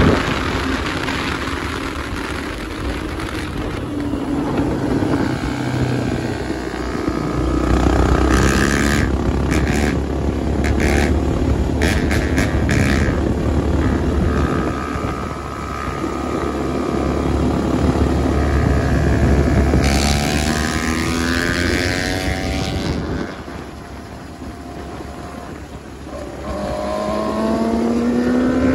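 Motorcycle and ATV engines running at road speed, with wind rumbling on the microphone. Twice in the second half an engine revs up, its pitch climbing as a rider accelerates.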